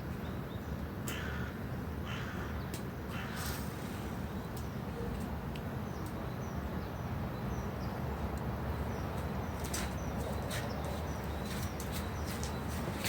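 A crow cawing three harsh times in the first few seconds, with small birds chirping. Underneath runs a steady low rumble.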